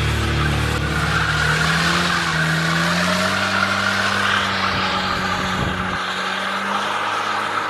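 A car engine running, its pitch rising slowly over the first few seconds and then holding steady.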